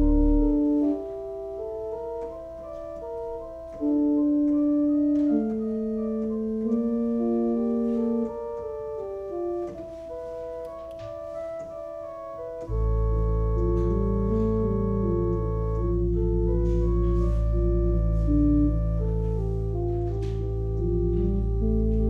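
Organ playing slow, sustained chords. About halfway through, deep bass notes come in and the music grows fuller and louder.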